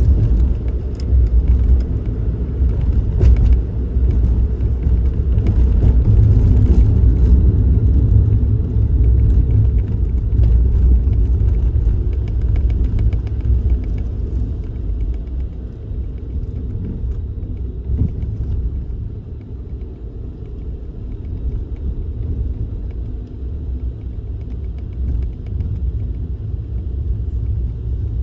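Suzuki Kei Works on the move: a steady low rumble of engine and road noise, easing somewhat in the second half.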